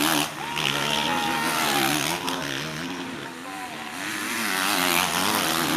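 Several motocross motorcycles racing, their engines revving up and down rapidly and overlapping as the riders work the throttle around the track.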